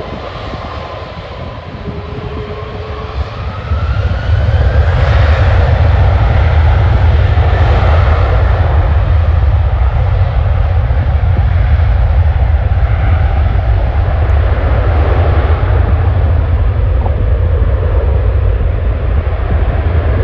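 Airbus A330 jet engines spooling up for takeoff, a whine rising in pitch, then a loud steady roar at takeoff thrust from about four seconds in.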